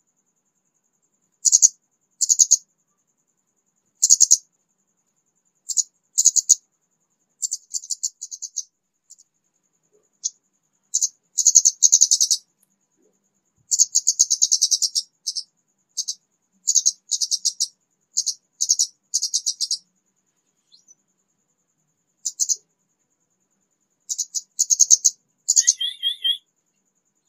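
Young orange-headed thrush (kemade) beginning to sing: short bursts of rapid, high-pitched twittering phrases with pauses between them. Near the end a lower, two-part call stands out from the rest.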